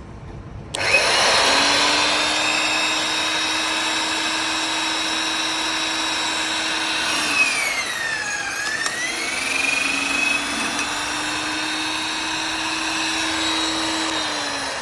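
Hitachi BS30YA hollow-chisel mortiser's electric motor switched on, with its whine rising to speed under a second in. Midway its pitch sags and recovers as the chisel bit bores into the wood under load, and near the end it starts to wind down.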